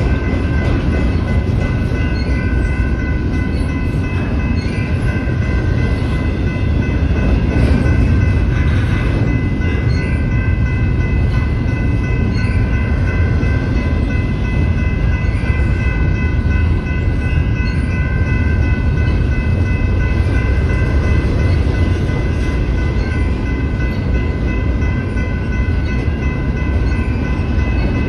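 Double-stack intermodal container train rolling steadily past: a loud, continuous rumble of wheels on rail, with several steady high-pitched tones sounding over it.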